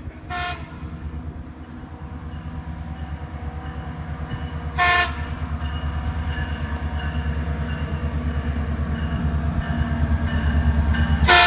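Metrolink diesel commuter train approaching, its engine rumble growing louder as it nears. The horn sounds short blasts about half a second and five seconds in, and again near the end.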